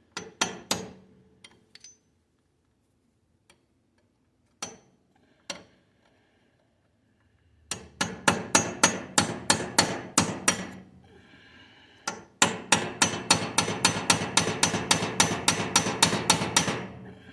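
Hammer striking a steel punch to drive a snapped roll pin out of a Kubota BX2200 tractor's front drive shaft. A few separate blows come first, then two fast runs of strikes, about five a second, with a short break between.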